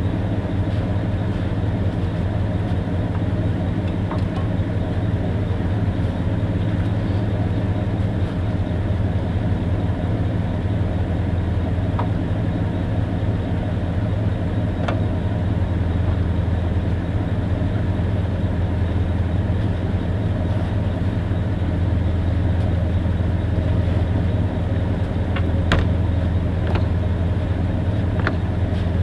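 Steady low motor drone with a constant hum and a few faint scattered clicks.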